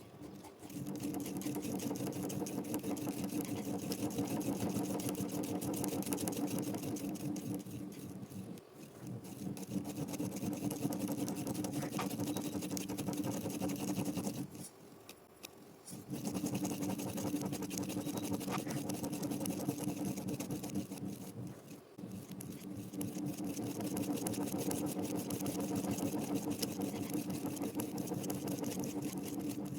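Spirograph drawing: a pen scratching on paper as a plastic gear wheel is rolled around inside the ring, continuous, with a brief pause about halfway through and short dips near a third and three quarters of the way in.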